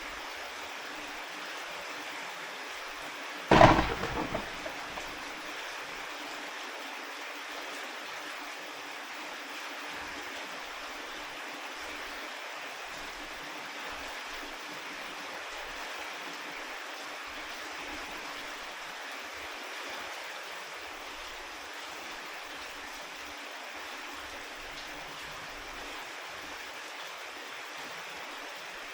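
Steady rain hiss, with one sudden loud bang about three and a half seconds in that dies away over a second or two.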